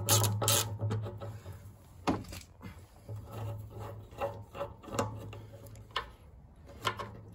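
A hand ratchet clicking rapidly for about half a second. Then a few scattered light knocks and clicks with some rubbing as parts of the fuel tank's sender unit are handled.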